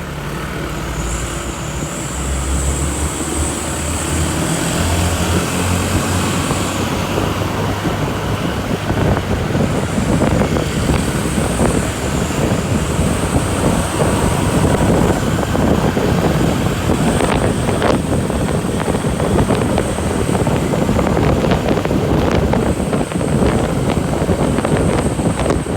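Truck on the move: engine drone with road and wind noise, growing louder and rougher after the first couple of seconds, with a thin high whine on top.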